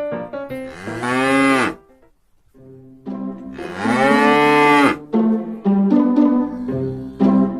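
Two drawn-out animal calls, each under a second, rising then falling in pitch, with piano notes before and after them.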